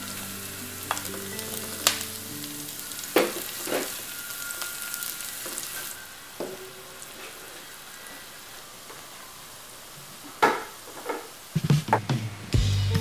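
Food sizzling as it fries in hot oil in a pan, stirred with a utensil that knocks against the pan several times. The sizzle is strong for the first half and then quietens.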